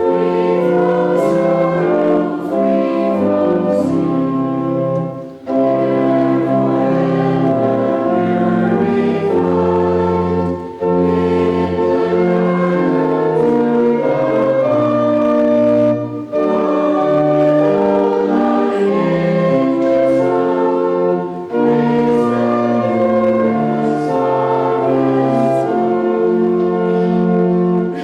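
A hymn: church organ and congregation singing in sustained chords, line by line with short breaks about every five seconds, ending on a held final chord near the end.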